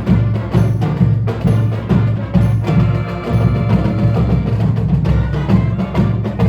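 Band music with percussion: sharp, wood-block-like strikes about twice a second over steady low tones, with sustained higher pitched notes joining in the middle.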